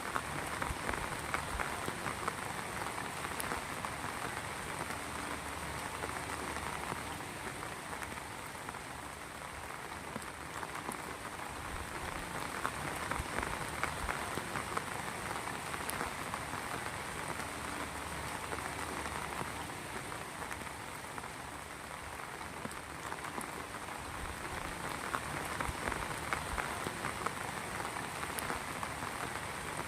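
Heavy rain falling steadily, a dense patter of drops on surfaces that swells and eases slightly over the stretch.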